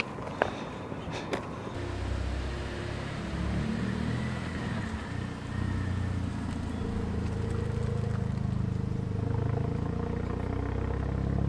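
Two sharp clicks, then a Volkswagen Golf hatchback's engine running as the car pulls away and drives off slowly, its pitch rising and falling with the throttle.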